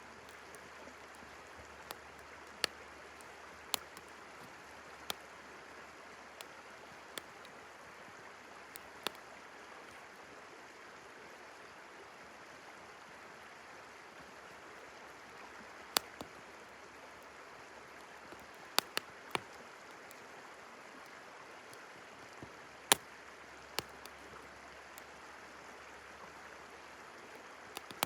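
Wood fire crackling, with sharp pops at irregular moments, over the steady rushing hiss of a flowing river.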